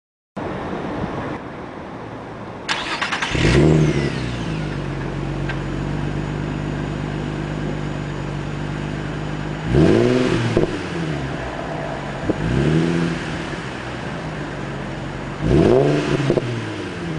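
Infiniti G35's 3.5-litre V6 heard through a Tanabe Medalion Touring exhaust. It is started about three seconds in, settles into a steady idle, and is then revved three times, each rev climbing and dropping back to idle.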